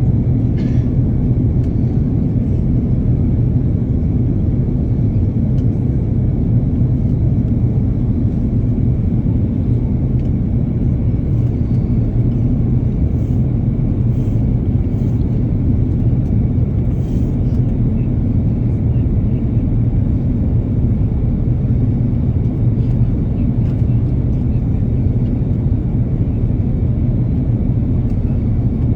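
Steady low rumble of an airplane, unchanging throughout.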